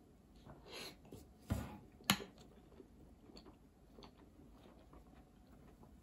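A person eating a strawberry: soft mouth and chewing sounds, with a dull knock about a second and a half in and a sharp click just after two seconds.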